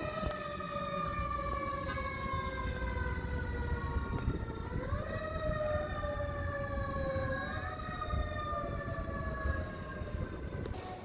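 Fire engine siren slowly winding down in pitch, picking up briefly twice before falling away again, over a low rumble of traffic.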